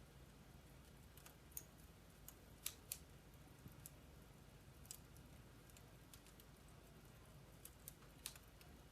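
Wood-burning fireplace crackling softly: sparse, irregular sharp pops and snaps from the burning logs over a faint low hum.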